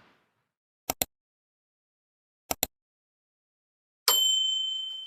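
Edited-in outro sound effects: two quick double clicks about a second and a half apart, then a single bell-like ding that rings and fades away.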